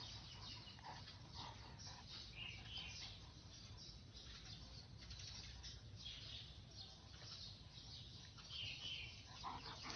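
Faint bird chirps scattered over a steady low outdoor rumble.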